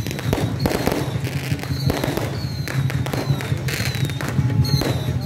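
Firecrackers crackling in dense, irregular volleys, with a few short high falling whistles and a steady low drone beneath.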